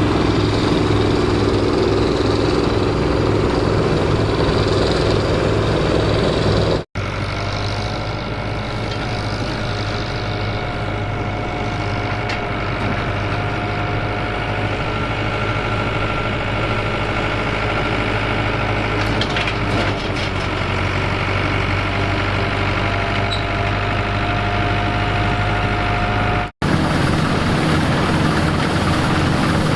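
Engines of vintage farm machinery running steadily. The sound changes abruptly twice, about seven seconds in and again near the end, as one machine gives way to another.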